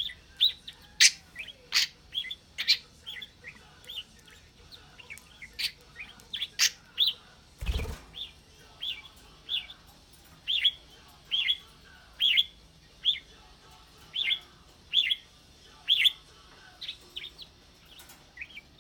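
A pet bird chirping over and over: short high chirps at roughly one a second, with a few sharper clicking notes. A brief dull thump comes about eight seconds in.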